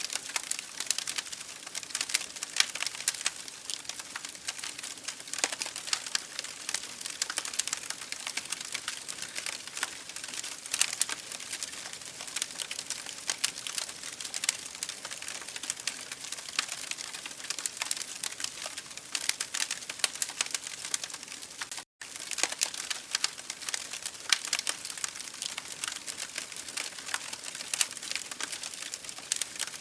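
Wood fire burning in an open fireplace: dense, irregular crackling and popping of the logs, with a very brief dropout about 22 seconds in.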